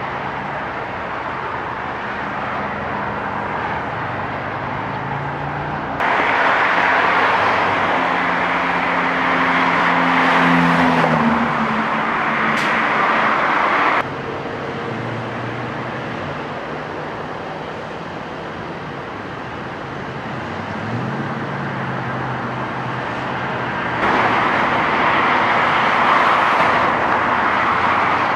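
Steady road traffic noise with vehicle engines running. The level jumps abruptly louder about six seconds in, drops back about fourteen seconds in, and jumps up again near twenty-four seconds.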